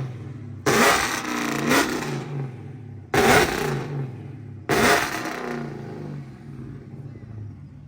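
Car engine revved in three sharp blips, each jumping up suddenly and dying away, over a steady idle.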